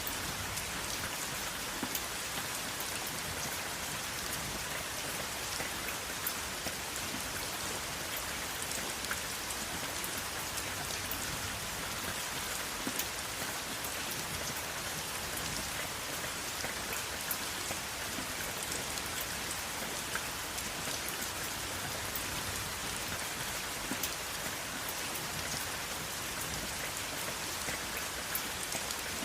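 Steady rain falling, an even hiss with many individual drops pattering and ticking throughout, without thunder.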